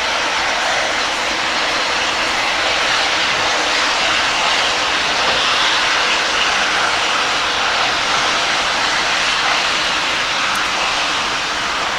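Steam locomotive giving a steady, loud rushing hiss of steam, with no distinct exhaust beats.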